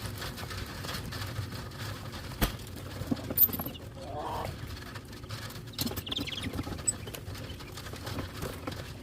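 Rustling and scrabbling with scattered small clicks and taps, from coturnix quail being caught and moved by hand into a carrier. A sharp knock comes about two and a half seconds in.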